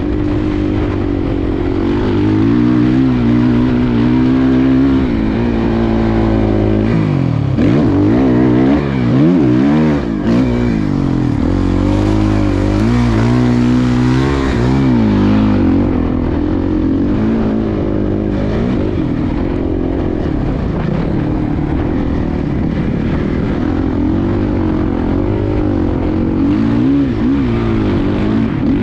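Suzuki motocross bike engine running hard on the track, revving up and down over and over, with quick sweeping rises and falls in pitch through the middle.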